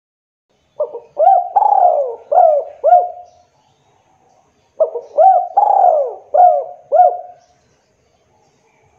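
Spotted dove (tekukur) cooing: two phrases of several rising-and-falling coo notes, one starting about a second in and the next about five seconds in.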